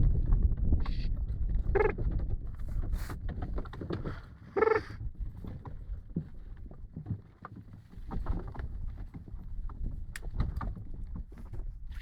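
Low rumbling of a horse-drawn carriage on the move, with two short pitched calls about two and five seconds in and scattered knocks near the end.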